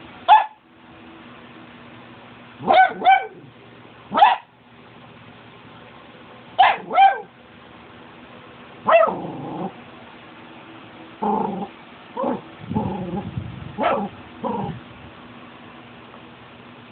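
Cavalier King Charles Spaniel barking: short, sharp barks, singly and in pairs, every couple of seconds, with lower, rougher vocal sounds in the second half.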